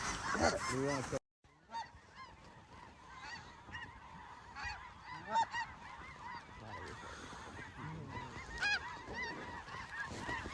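Snow geese calling, many overlapping short honks from a flock. The sound cuts out completely for a moment about a second in, then the chorus resumes more quietly.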